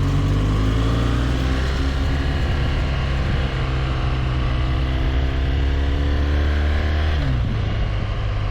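BMW R1200GS boxer-twin engine running under load, its pitch rising steadily as the bike gathers speed, then falling sharply about seven seconds in.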